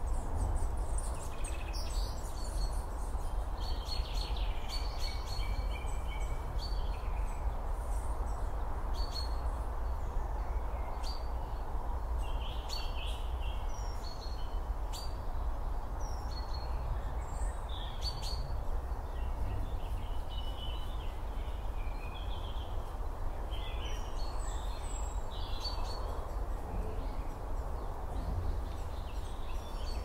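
Small birds chirping and calling in short, scattered phrases throughout, over a steady low background rumble of outdoor noise.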